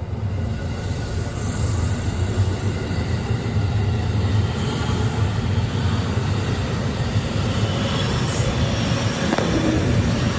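A JR West 207 series commuter electric train, an unrefurbished 1000 and 100 sub-series set, pulling away from the platform. Its running noise builds over the first few seconds and then holds steady.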